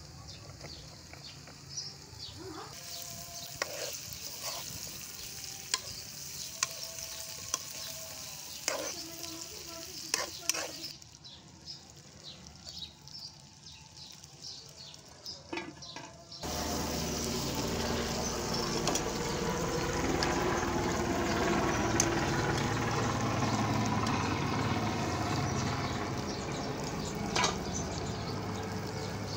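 Diced potatoes frying in hot oil in a metal karahi, with a metal spoon clicking and scraping against the pan as they are stirred. The sizzle is faint with scattered clicks at first, then about halfway through it jumps to a loud, steady sizzle.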